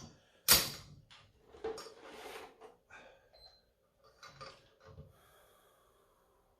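Iron weight plates being handled to change the load back down: one sharp metal clank about half a second in, then scattered quieter knocks and rustling.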